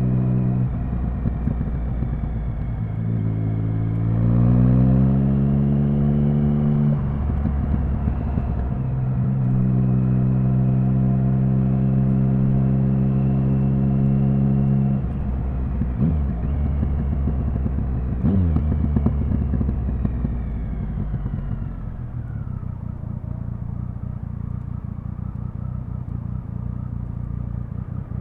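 Triumph Speed Triple 1050's three-cylinder engine under way: a steady note, rising in pitch as it accelerates, then dropping off the throttle with a couple of sharp cracks. It settles to a lower, quieter note near the end.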